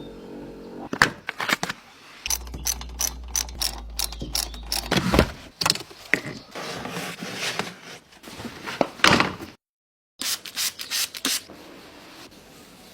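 A run of clunks and clicks, with a steady low hum for about three seconds starting two seconds in; the sound drops out completely for half a second near the ten-second mark.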